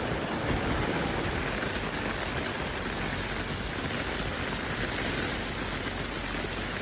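Torrential rain pouring down, a steady, even hiss.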